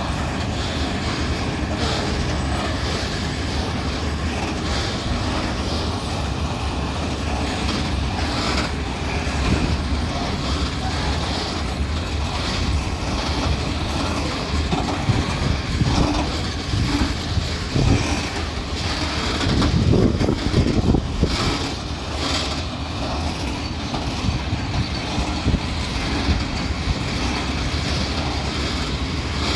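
A train running past on the tracks: a steady rumble with knocks from the wheels, strongest a little past the middle.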